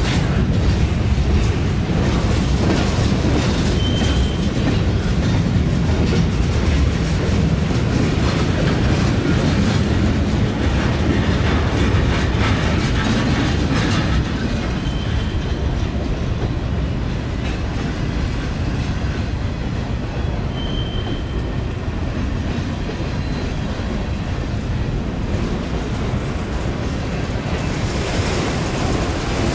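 A train rolling past on the rails: a steady rumble of wheels with clicks over the rail joints, and a few short faint wheel squeals.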